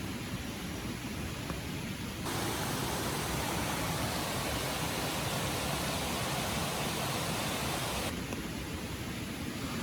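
Steady rushing of a flowing river and falling rain. From about two seconds in to about eight seconds, the rush is louder and hissier, and it starts and stops abruptly.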